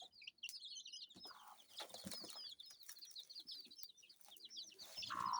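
A brood of Kienyeji chicks peeping rapidly and continuously, with their mother hen clucking about a second in and again, louder, near the end.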